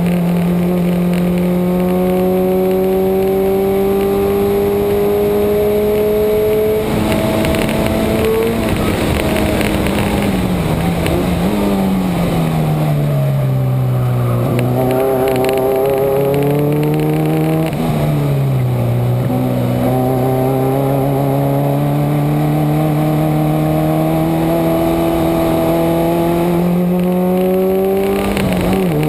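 Subaru's boxer engine pulling hard on a race track, its pitch climbing slowly on a long straight, then falling with quick blips as the car brakes and downshifts around ten to twelve seconds in. It climbs again through the next corners, dropping sharply at an upshift a little past halfway, over steady wind and road noise.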